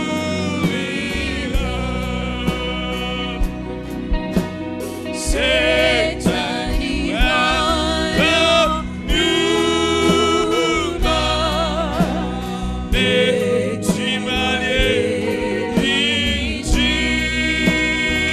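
Gospel singing with instrumental backing: voices carrying a melody with vibrato over a steady bass line and regular drum beats.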